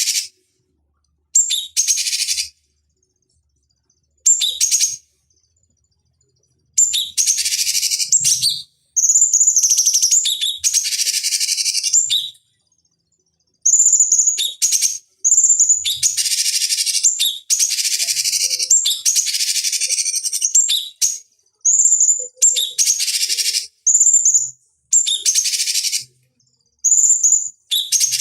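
Cucak cungkok singing in repeated bursts of loud, high, chattering song. Each phrase lasts about a second or two, and many open with a sharp whistled note. Between phrases there are gaps of total silence, as in an edited, looped training recording.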